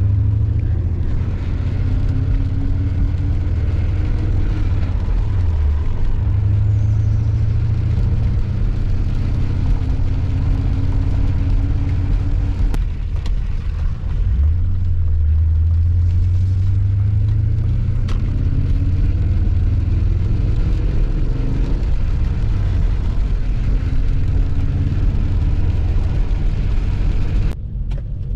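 BMW E39 M5's 4.9-litre V8 running under way while driving, its revs climbing, dropping briefly about five and fourteen seconds in as at gear changes, then climbing again. Near the end the sound suddenly gets quieter.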